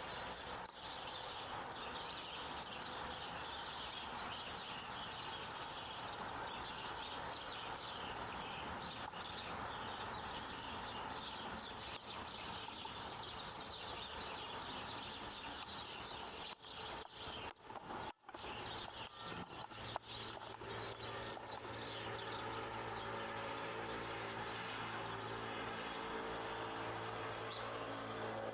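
Outdoor background noise with faint bird chirps throughout the first half. After a few brief dropouts in the middle, a steady low hum with several held tones takes over.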